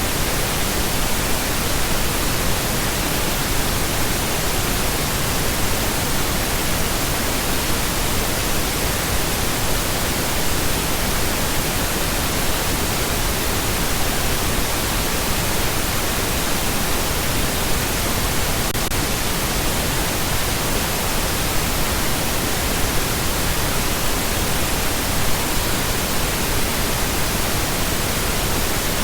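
Continuous pink noise: a steady, even hiss across the whole range, unchanging throughout.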